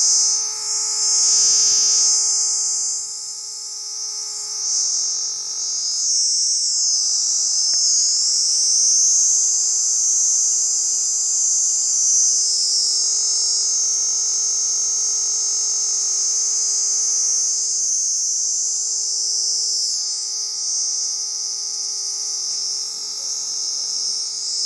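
Cicada singing: a loud, steady, high-pitched buzz that runs on without a break.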